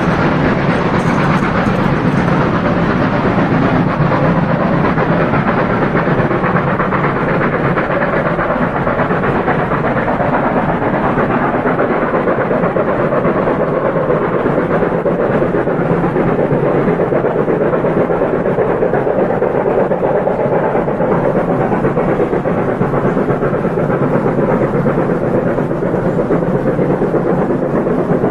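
Märklin model coke train hauled by model steam locomotives running on the layout: a steady, even rumble of wheels rolling on the track.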